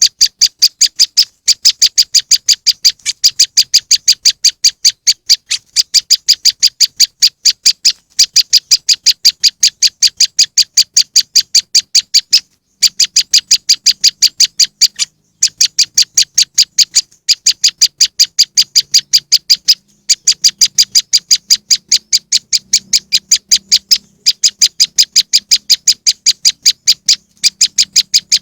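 Prenjak lumut ('moss wren') bird-lure call: a rapid, evenly repeated high chipping, several notes a second. It comes in runs of a few seconds broken by short pauses, about ten times.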